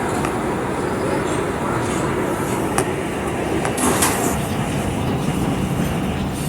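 R211 subway car running between stations, heard from inside the car: a steady rumble with a couple of sharp clicks about three and four seconds in.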